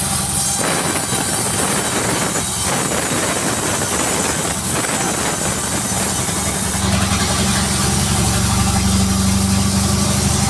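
Sawmill engine running steadily. About seven seconds in, a stronger, deeper hum comes in.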